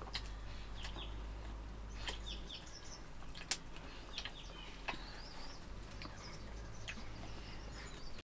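Small birds chirping in short, scattered calls, with a few sharp clicks among them, the loudest about three and a half seconds in. The sound cuts off suddenly just before the end.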